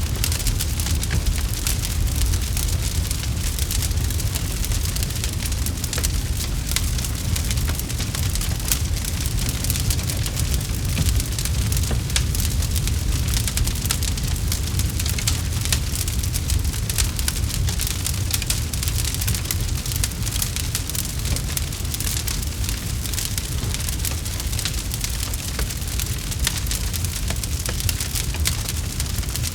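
Campfire crackling: a dense, continuous patter of small pops and snaps over a steady low rumble.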